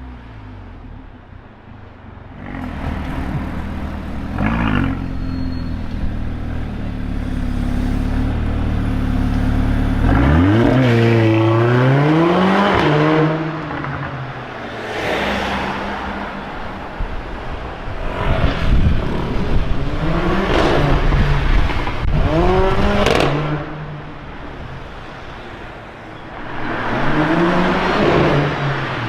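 Mercedes-AMG A45's turbocharged four-cylinder engine idling, then revved again and again. About six rises and falls in pitch, with crackles from the exhaust among the revs.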